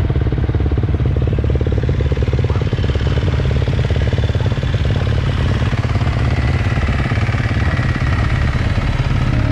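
Motocross dirt bike's single-cylinder engine running steadily, heard close up.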